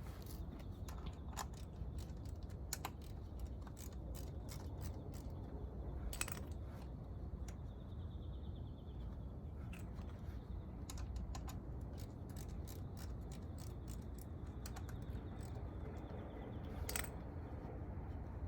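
Irregular light metallic clicks and clinks of hand tools and engine parts being handled during engine disassembly, with a louder click about six seconds in and another near the end.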